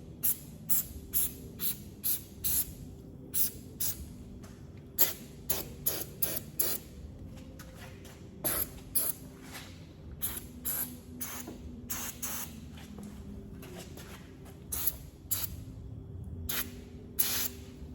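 Aerosol can of fish oil rust inhibitor sprayed in many short, quick bursts, being worked down into a seam crevice of a car's rusted rear wheel arch.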